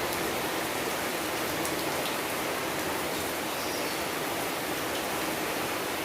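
Steady rain falling, an even hiss of drops with a few faint drop ticks.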